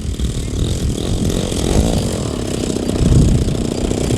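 Engine of an 'Ultimate' radio-controlled model biplane running, its pitch bending up and down and getting loudest about three seconds in.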